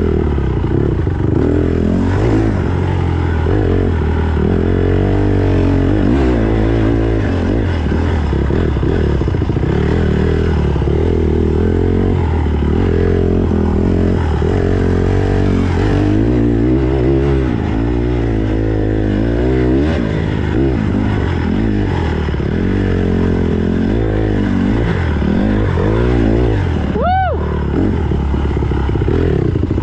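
Honda CRF150R's four-stroke single-cylinder dirt-bike engine running under load while ridden, its pitch rising and falling with the throttle. Near the end there is one quick, sharp rev up and back down.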